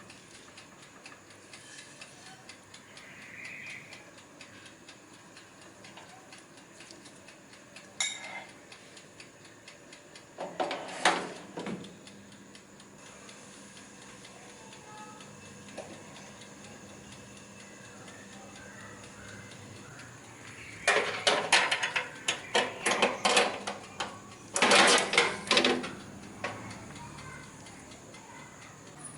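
Kitchen utensils and dishes clattering in short bursts: a single knock about eight seconds in, a cluster of clinks a few seconds later, and a longer run of rapid clattering near the end.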